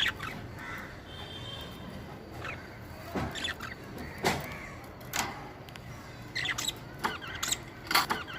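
A pet bird giving short chirps and squawks, one every second or so, more often in the second half.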